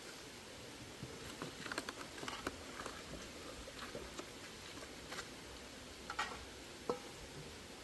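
Scattered light clicks and taps, irregularly spaced, over a faint steady hiss.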